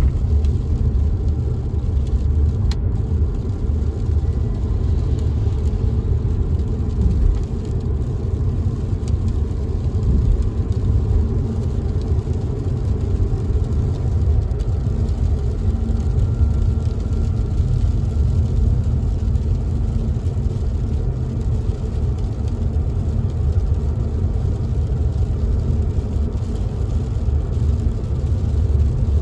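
Inside a moving car: a steady low rumble of road and engine noise while driving in the rain, with a few faint taps of raindrops on the window.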